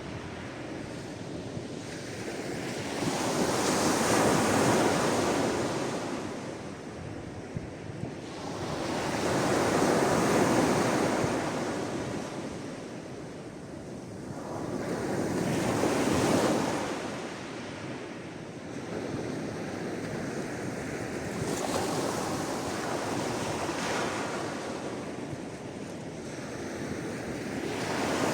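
Sea waves washing in, each surge swelling and then ebbing away about every six seconds; the later surges are softer.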